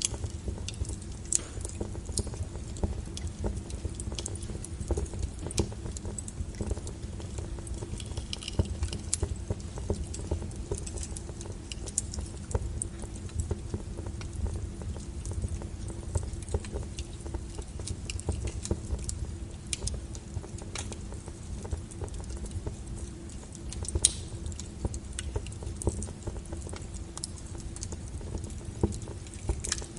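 Wood fire burning in a fireplace, crackling with frequent small pops and snaps over a low steady rumble of flame. A couple of louder pops stand out near the end.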